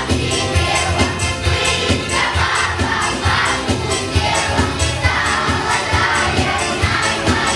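A class of children singing together as a choir over a backing track with a steady beat.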